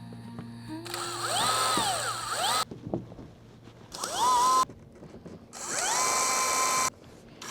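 Power drill running in three short bursts, its motor whine rising and falling as the trigger is squeezed and eased, while fastening or pre-drilling clear corrugated PVC roof panels.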